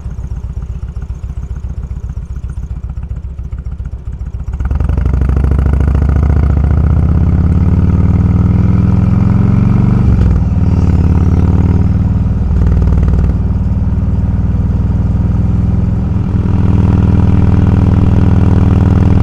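Motorcycle engine running at low revs with an even pulse, then opening up sharply about four and a half seconds in and accelerating, its pitch climbing and dipping briefly several times as it shifts up through the gears.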